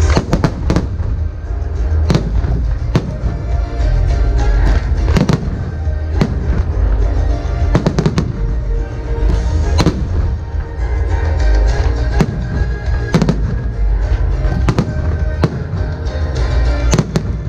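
Fireworks shells bursting in a string of sharp, irregularly spaced bangs, over loud music.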